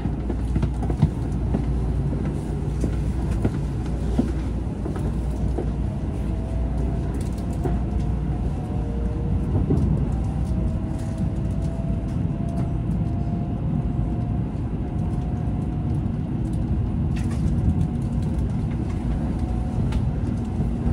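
Shinkansen bullet train heard from inside the cabin as it pulls out of a station and gathers speed: a steady low rumble, with a faint whine from the electric traction motors slowly rising in pitch.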